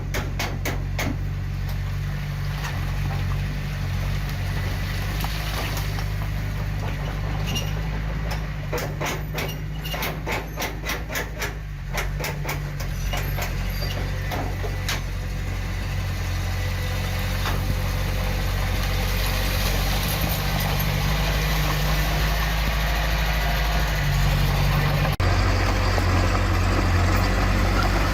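Heavy diesel engine of earthmoving machinery running steadily, with rapid runs of metallic clanks in the first seconds and again around the middle. It grows louder near the end.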